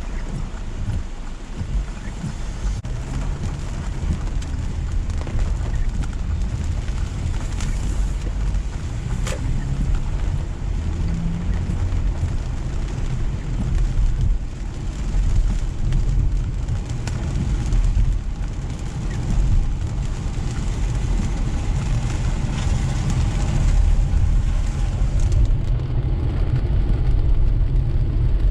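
Car driving on a wet road in steady rain: a steady low rumble of road and engine noise under the hiss of tyres on wet pavement and rain on the car. The higher part of the hiss drops away near the end.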